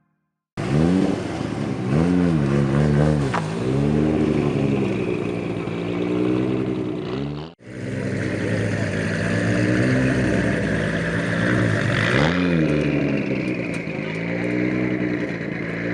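Car engine being revved again and again, its pitch rising and falling with each blip of the throttle. The sound cuts out for an instant just over halfway through, then the revving carries on.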